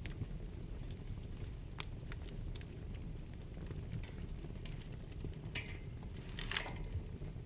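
Wood fire burning in a fireplace: a steady low rumble of flames with scattered sharp crackles and pops, and a brief burst of hissing crackle about five and a half seconds in, louder about a second later.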